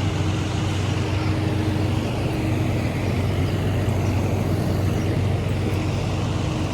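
City road traffic: a steady wash of motor-vehicle noise with a constant low hum, with no sudden events.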